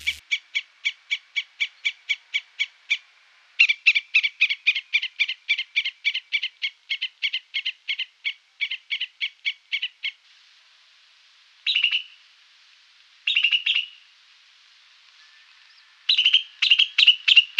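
Squirrel alarm calls: a long run of high chirps repeated at about four a second, with a short break about three seconds in and a stop about ten seconds in, then three short, fast bursts of chatter.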